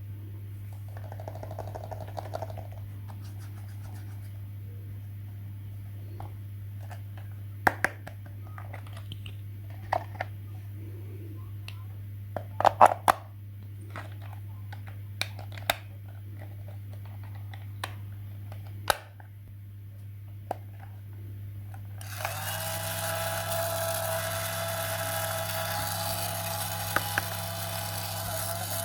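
Clicks and taps of small plastic parts being handled, over a steady low hum. About 22 s in, a small electric toy motor switches on and runs with a steady whine.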